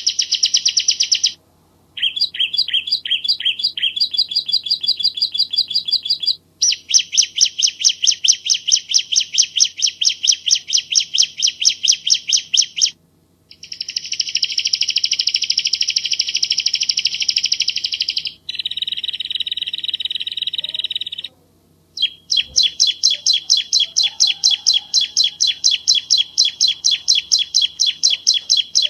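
Bar-winged prinia (ciblek Jawa) singing in long, fast bursts of repeated high, clear notes, about six bouts broken by short pauses.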